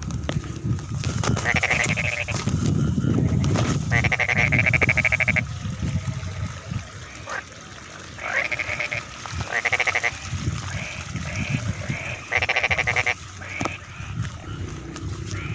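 Rice-field frogs calling: a series of rasping, rapidly pulsed croaks, one about a second and a half long, with fainter calls between them.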